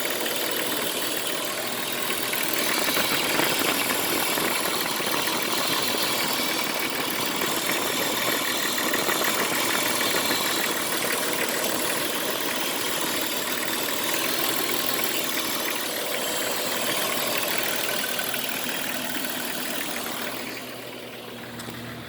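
Jeep Cherokee XJ engine idling with a dense, rapid rattle and a hiss over it, the rattling or knocking its owner is trying to identify. It gets quieter near the end.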